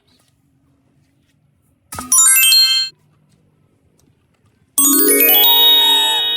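Two chiming musical sound effects: a short, bright jingle about two seconds in, then a longer, louder ringing chime chord from about five seconds in. Near silence between them.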